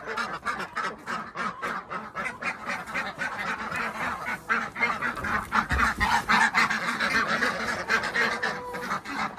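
A flock of domestic ducks and geese calling over each other, a dense continuous chatter of quacks and honks.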